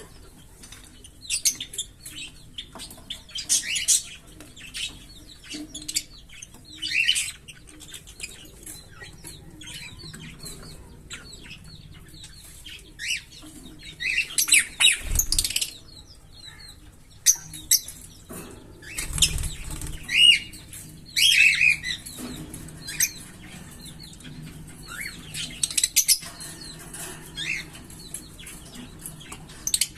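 A pair of green Fischer's lovebirds chirping in short, shrill bursts, denser and louder in two flurries around the middle, with two low thumps in that stretch.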